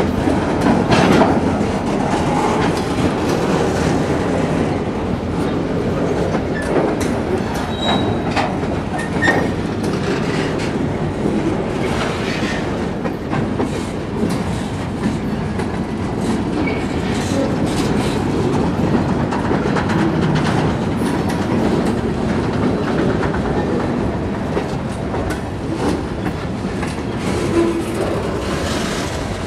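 Freight train cars, bulkhead flatcars then boxcars, rolling past on steel rails: a steady rumble of wheels on track with irregular clicks over rail joints and a few brief, faint wheel squeals.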